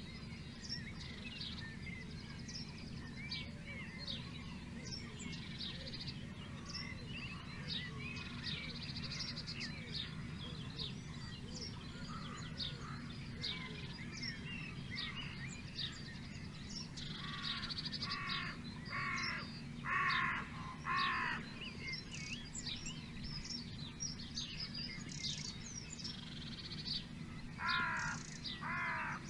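Wild birds chirping and singing in many short high notes over a steady low rumble. About two-thirds of the way in, a larger bird gives five loud, harsh calls in quick succession, and two more near the end; these are the loudest sounds.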